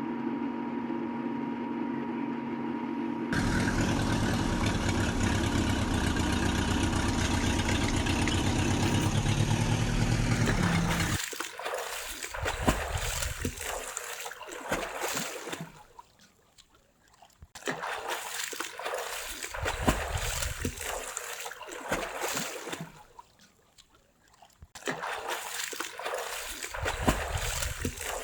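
A small electric motor hums steadily, then runs louder with a fast low pulse for about eight seconds. It stops suddenly, and water trickles and splashes in edited stretches, broken twice by brief silences.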